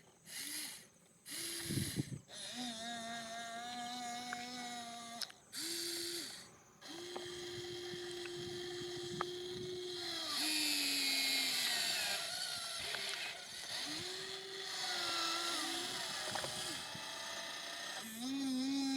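Small electric motors of RC construction models whining in stretches of a few seconds, starting and stopping, with the pitch stepping up and down as the models drive and work.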